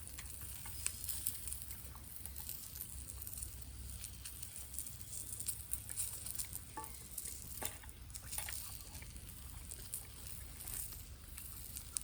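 Wood fire in a fire pit grill crackling, with meat sizzling: irregular small pops and clicks over a faint hiss.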